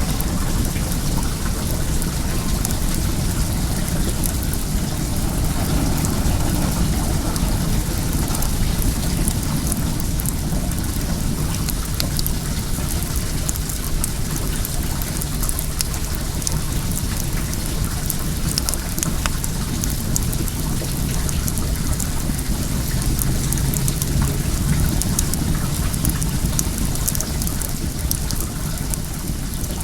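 Well water running steadily, with a wood fire crackling in many small, irregular snaps over it.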